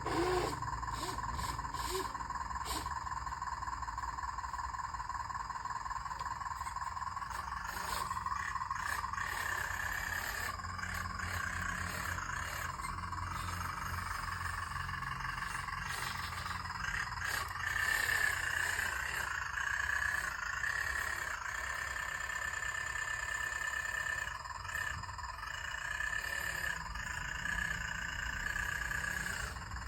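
Whine of a radio-controlled excavator's small electric motor and hydraulic pump working, its pitch wavering and rising as the load changes, with a few light clicks.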